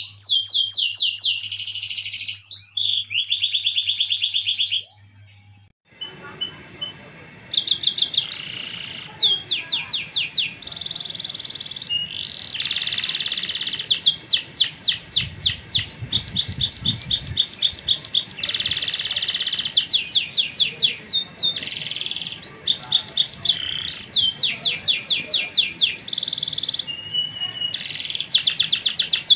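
Domestic canary singing a long song of fast trills and rolls, each made of rapidly repeated high notes. There is a brief break about five seconds in, after which the singing carries on over faint background hiss.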